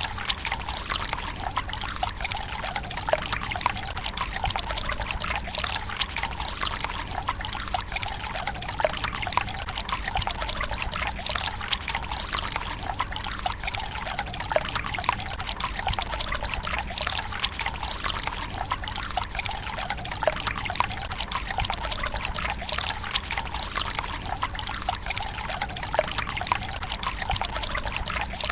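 Water pouring from a bamboo spout into a stone tsukubai basin: a steady trickle with many small splashes.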